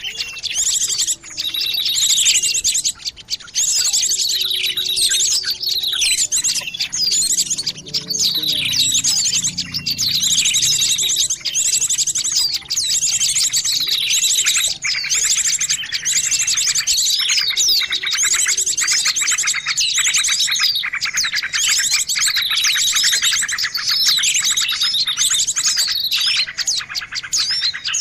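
A dense chorus of small songbirds chirping, with rapid high trills and repeated falling whistled notes overlapping without a break: a lure recording made to draw small birds in.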